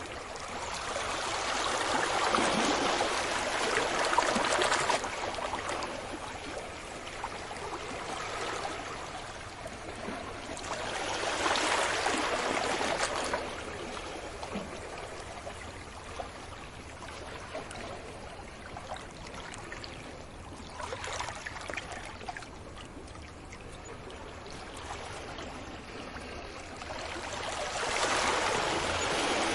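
Ocean waves breaking and washing up a beach, swelling and fading in slow surges every eight to ten seconds or so.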